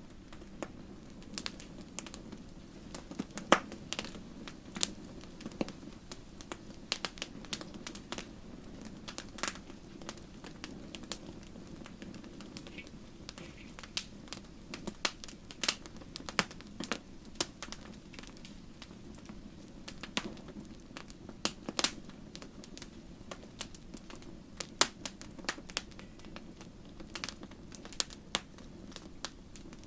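Wood campfire crackling: irregular sharp pops and snaps, a few every second, over a steady low rumble of the burning fire.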